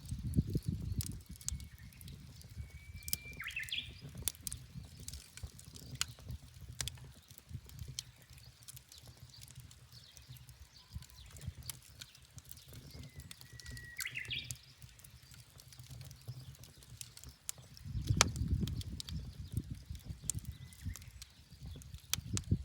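Wood fire crackling, with sharp pops throughout over a low rumble that swells twice, briefly about a second in and again for a couple of seconds late on. A bird calls twice, each call a short whistle ending in a quick up-and-down flourish.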